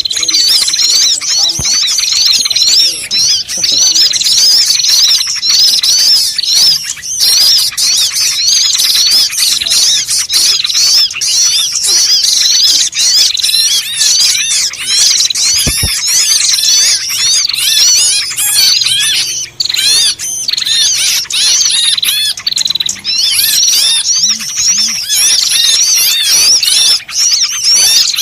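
Dense, unbroken chatter of many small birds calling at once, high chirps and squawks overlapping: a bird-lure recording of a noisy mixed flock, played to draw small birds in.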